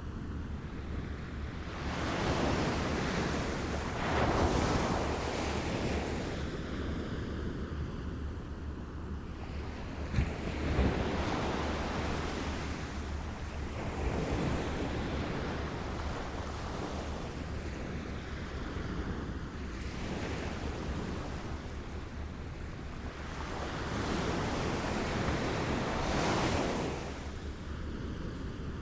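Small waves lapping at the shore, washing in and drawing back in slow swells every few seconds, the loudest swell near the end, with one brief sharper splash about ten seconds in.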